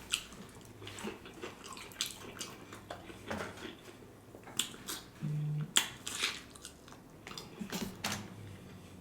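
Close-miked chewing with scattered wet mouth clicks and smacks from someone eating fried food. About five seconds in, a phone vibrates once in a short low buzz, which marks an order notification coming in.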